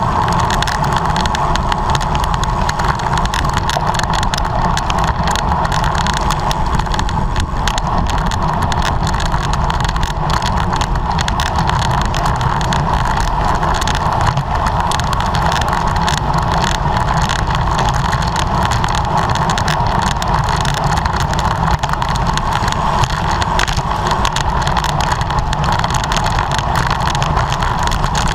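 Steady wind and road rush from a bicycle ridden at race speed, unchanging throughout with a rumble underneath.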